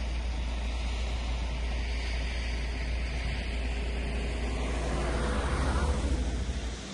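Car driving on a road: a steady low rumble of engine and tyres, with a rushing noise that swells and fades about five to six seconds in.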